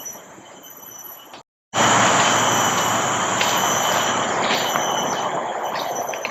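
Faint insect chirring, then after a short break a loud, even buzzing hiss from a cicada that slowly fades away.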